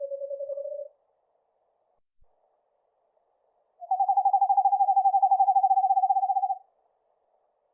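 Eastern screech owl giving its monotone trill, a rapid even run of notes on one pitch. A lower trill fades out about a second in, and a longer, slightly higher trill lasting nearly three seconds starts about four seconds in.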